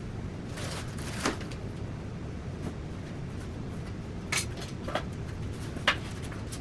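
Small hard household objects clinking and knocking as they are handled during tidying, about four short sharp clinks over a steady low background rumble, the audio sped up to double speed.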